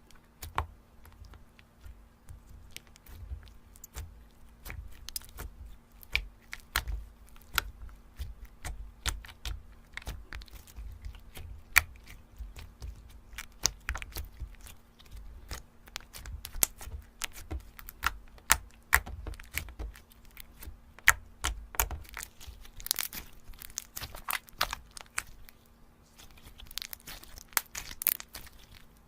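Slime being handled and squeezed: a dense, irregular run of small crackles, pops and clicks, thickest near the end.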